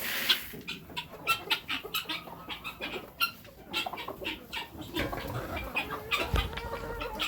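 A flock of chickens clucking, mixed with many short sharp clicks and a brief rustle at the start.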